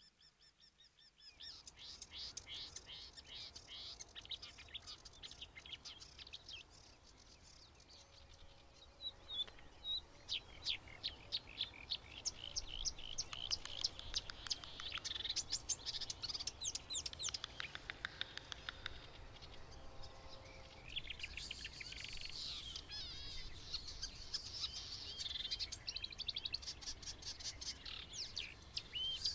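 Songbird singing a long, fast, varied song of sharp high chirps and trills, with a brief lull and a buzzy phrase partway through.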